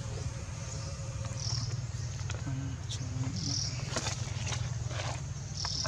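Outdoor ambience: short high bird chirps about once a second, with scattered sharp clicks, over a steady low rumble.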